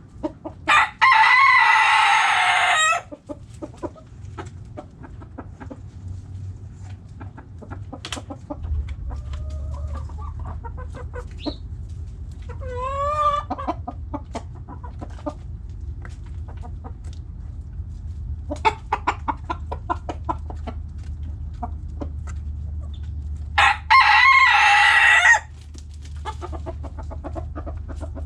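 Backyard roosters crowing twice, once at the start and once near the end, each crow about two seconds long and the loudest sound here. Hens cluck in short notes in between, with a wavering call about halfway through, over a low steady hum.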